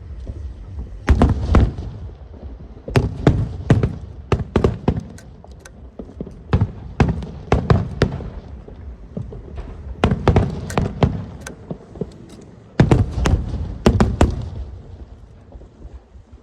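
Aerial fireworks bursting overhead: a rapid, irregular run of sharp bangs and crackles, with dense clusters of bursts about a second in, around three to five seconds, and again around ten and thirteen seconds.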